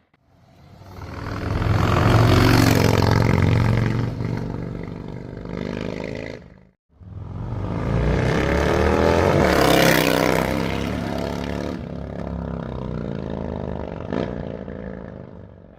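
Harley-Davidson V-twin with a Malparidos aftermarket exhaust, running loud and swelling and falling away twice, the pitch climbing and easing with the revs. The sound cuts out briefly about seven seconds in, and a sharp click comes near the end.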